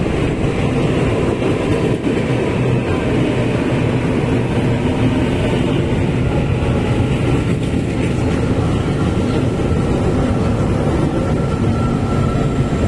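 Train running close by at a station, a loud steady rumble throughout, with a faint steady whine coming in over the second half.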